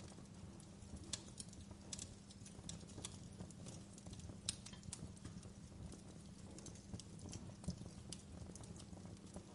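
Wood fire crackling: irregular sharp pops and snaps, a few louder ones about 1, 4.5 and 7.7 seconds in, over a soft steady low rumble of burning.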